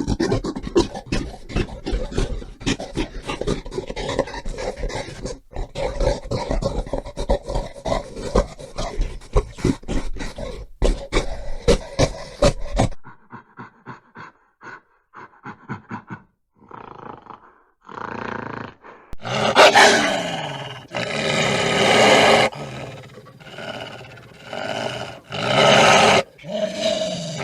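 Wild animal calls in two recordings: a dense run of rapid repeated calls, then, after a sudden cut about halfway through, a series of separate louder calls, some falling in pitch.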